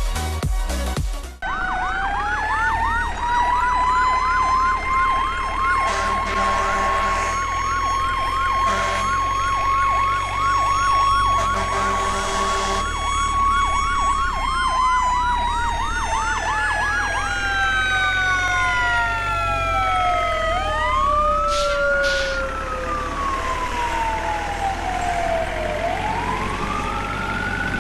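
Emergency vehicle siren: about a second and a half in, a fast yelp of about three pitch sweeps a second starts over a held tone. The pitch then slides down as if the vehicle passes, and near the end the siren changes to a slow rising and falling wail, over a low rumble.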